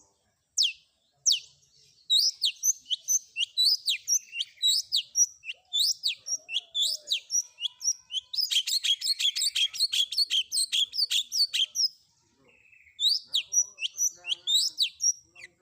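Long-tailed shrike (cendet) singing a rapid run of sharp, downslurred chirps with mimicked fill notes, a dense buzzy rattle in the middle, then a brief pause before the chirps resume.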